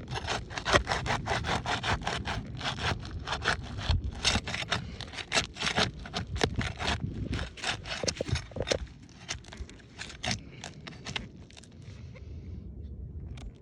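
Rapid, repeated scraping strokes, several a second, of something being worked back and forth against and under brittle asphalt roof shingles to break them loose from their seal; the strokes thin out and fade near the end.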